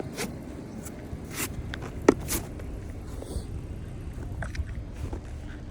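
Scraping strokes on ice crusted onto a car as it is cleared: a few separate short scrapes, with a sharp knock about two seconds in. The car's engine runs underneath as a low steady hum.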